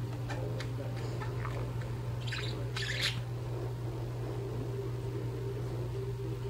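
Budgerigars chattering softly, with two brief sharper chirps about two and three seconds in, over a steady low hum.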